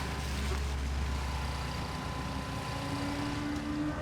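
A car engine running steadily, its pitch rising slowly in the second half.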